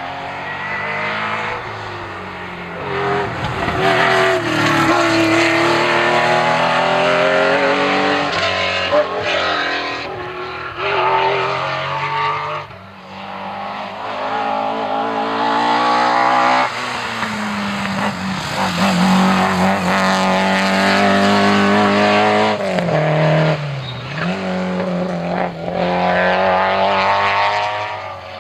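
Historic rally cars at full throttle on a stage: engines revving hard, their pitch climbing through the gears and dropping at each shift or lift, with a brief lull about twelve seconds in.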